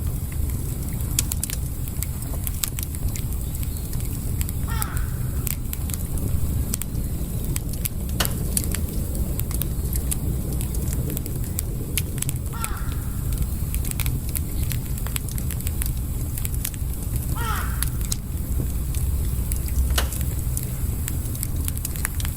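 Campfire burning with a steady low rumble and scattered sharp crackles and pops. Three short squeaky calls with a falling pitch come through, spaced several seconds apart.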